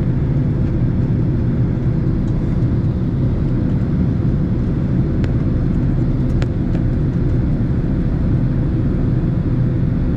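Steady roar of a Boeing 767's engines and rushing air heard inside the passenger cabin in flight, with a constant hum tone running through it. A couple of faint clicks come about five and six seconds in.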